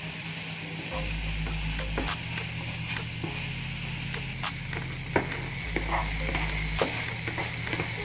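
Sliced onions and peppers sizzling in hot oil in a non-stick frying pan while a wooden spatula stirs them, with irregular clicks and scrapes of the spatula against the pan, as soy sauce is mixed through.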